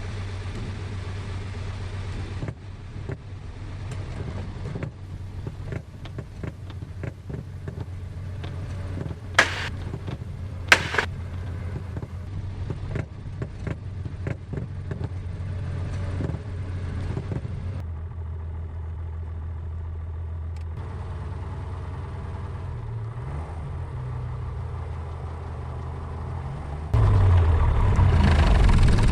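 Piper Cherokee's piston engine running steadily, heard from inside the cabin as a low hum, with scattered knocks and two sharp clicks about ten seconds in. The sound gets markedly louder a couple of seconds before the end.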